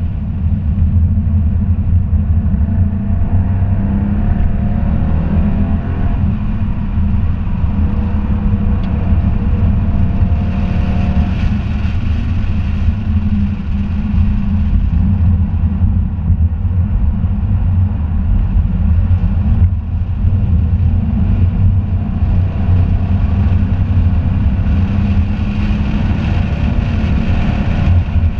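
2017 Ford Mustang GT's 5.0-litre V8 running hard on a road course, a loud, deep engine note with its pitch rising and falling with the throttle and gear changes through the first half, over steady road noise.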